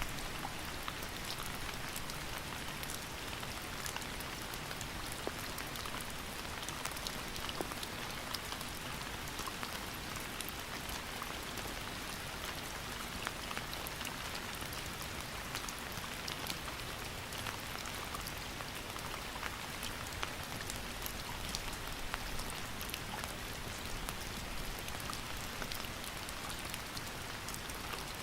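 Steady rain falling, a constant hiss with many individual drops ticking on a hard surface.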